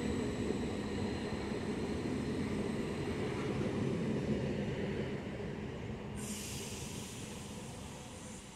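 Train running past and gradually fading away, with a faint steady high whine over the rumble; a hiss sets in about six seconds in.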